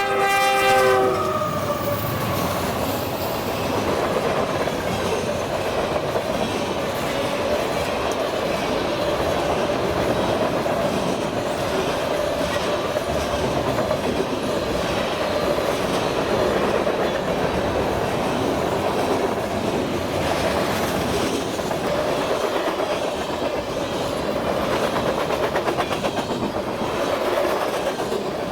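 Freight train passing: a diesel locomotive's multi-tone horn sounds and cuts off about a second in, then the steady rumble and clatter of freight cars rolling by on the rails.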